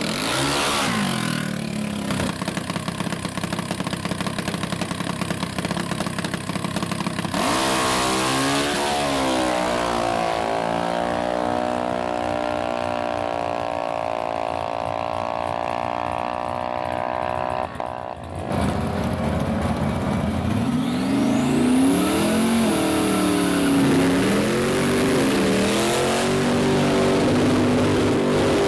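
Drag-racing engines revving hard. About a quarter of the way in one engine comes up loud and is held at high revs for around ten seconds, then cuts off abruptly; after that, engine revs rise and fall repeatedly.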